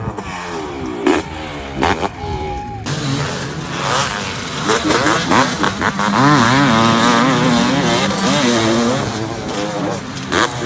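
Two-stroke motocross bike engines revving hard, their pitch rising and falling quickly as the throttle is worked and gears change. The sound changes abruptly about three seconds in.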